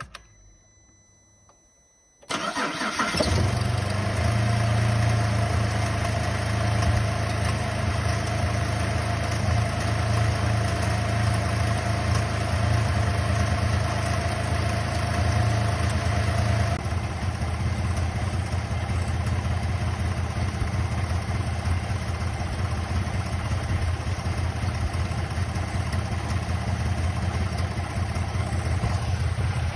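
Holden VZ Calais 3.6-litre LY7 V6 engine starting about two seconds in, then idling, its note settling and changing about halfway through. The owner calls it a rough idle with a potential misfire, which he suspects lies in the ignition coils or wiring on the left bank.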